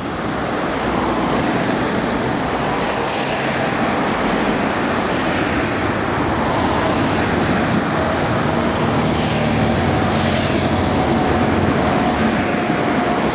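A tram passing close by: steady running noise of its wheels on the rails, with a faint steady whine in the second half.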